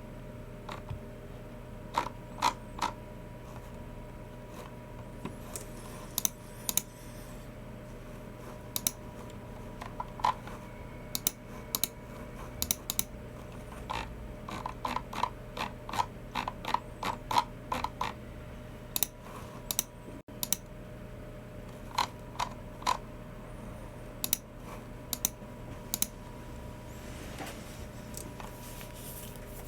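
Keystrokes on a Logitech MX Keys Mini keyboard and clicks of a Logitech G304 mouse, coming irregularly, with a quicker run of about a dozen keystrokes around the middle. A steady faint hum lies underneath.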